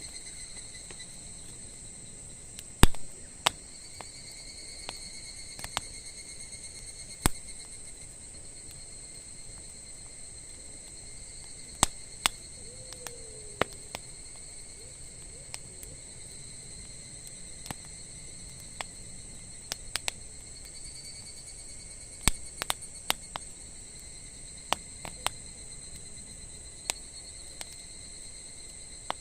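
Wood fire crackling, with sharp irregular pops at uneven intervals. Insects trill steadily and high-pitched underneath.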